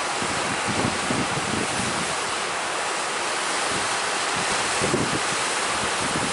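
Strong wind buffeting the microphone in irregular gusts over the steady rush of sea surf.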